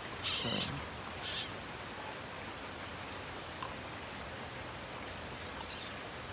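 Steady rain falling. About a quarter second in there is a brief, louder hiss.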